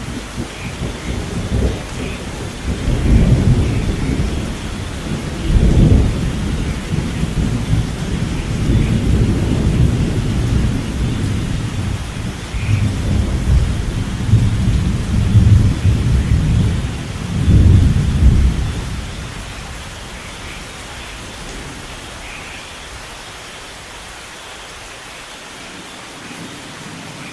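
Thunderstorm: heavy rain falling steadily while thunder rolls in long low rumbles, strongest about 3, 6, 15 and 18 seconds in, then dying away after about 19 seconds to steady rain.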